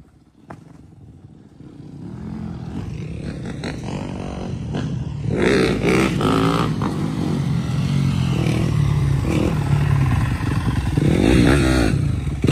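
Dirt bike engines running and revving. It starts quiet, with a single click about half a second in. From about two seconds in the engines get louder, and they are loud from about five seconds in, with pitch swings as they rev.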